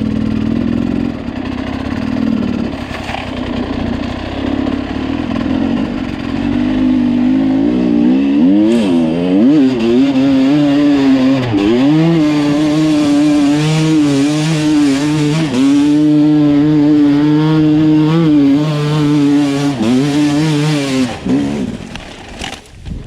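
Sherco two-stroke enduro dirt bike engine being ridden, its note rising and dipping over and over with the throttle. It runs rougher and lower for the first several seconds, then holds a clear, high, wavering note from about eight seconds in, and drops away near the end.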